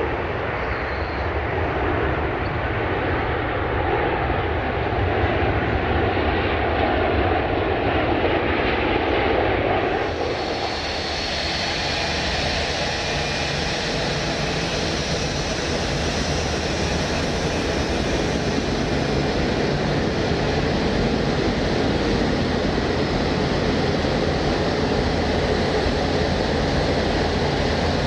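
Airliner jet engines running, a steady noisy rumble. About ten seconds in the sound changes abruptly, and a steady high whine sits over the rumble from then on.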